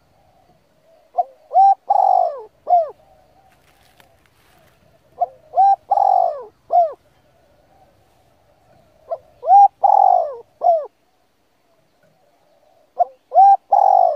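A bird's repeated cooing call: a phrase of about five short notes comes four times, roughly every four seconds.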